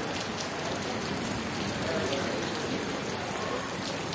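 Rain falling steadily onto standing floodwater on a paved terrace, the drops splashing into the water.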